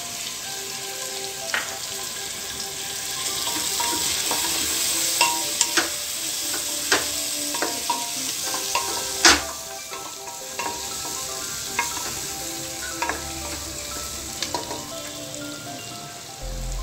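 Vegetables and spices sizzling in hot oil in an aluminium pressure cooker, stirred with a wooden spatula that scrapes and knocks against the pot. There are scattered sharp knocks, and the loudest comes about nine seconds in.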